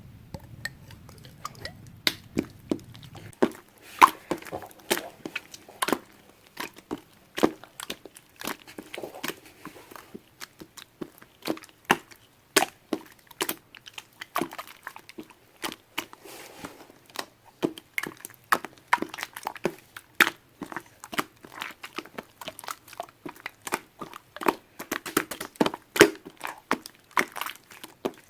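Irregular crisp clicks and crunches, roughly one or two loud ones a second over softer crackling.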